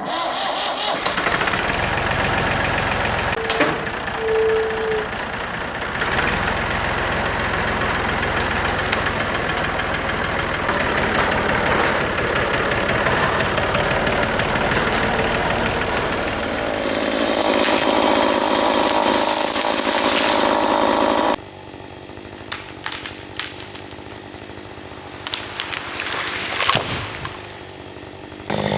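An engine running loudly and steadily for about twenty seconds, then cutting off suddenly. What follows is a quieter stretch with scattered knocks and clatter, and a loud engine sound comes back right at the end.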